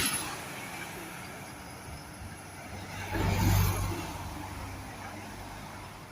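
A vehicle passing, growing louder to a peak with a low hum about three and a half seconds in, then fading, over steady outdoor noise.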